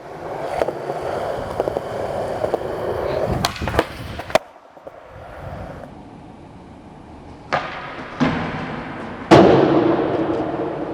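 Skateboard wheels rolling on concrete for about four seconds, ending in two sharp clacks of the board. After a quieter stretch come a few hard board slaps, the loudest near the end, with rolling trailing off after it.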